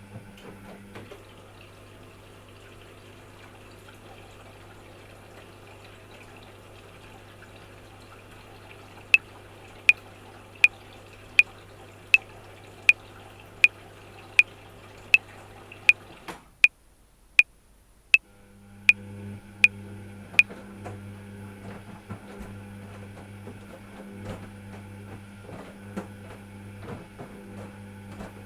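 Washing machine running with a steady hum, cutting out for about two seconds midway. Over it, a metronome clicks sixteen times at 80 beats per minute, four bars of 4/4, starting about nine seconds in.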